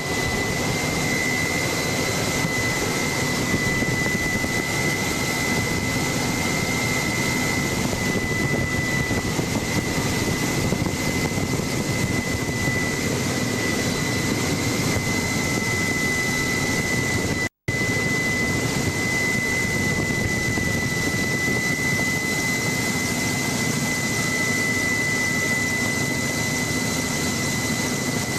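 Helicopter turbine engine and rotor running steadily, heard on board: an even rushing noise with a high, steady whine over it. The sound drops out for an instant about two-thirds of the way through.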